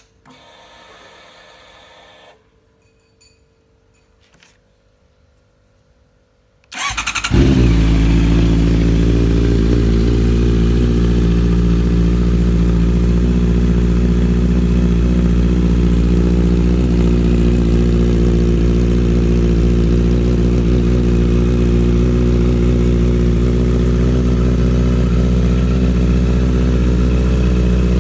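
2019 Honda CBR650R's inline-four engine being started: a faint whine for the first two seconds, then about seven seconds in it cranks briefly and catches, settling into a steady idle that holds without revving.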